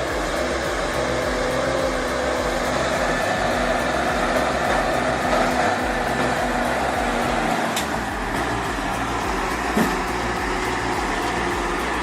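Heavy truck engine running steadily under load, with a faint drifting engine tone, and one short knock near the end.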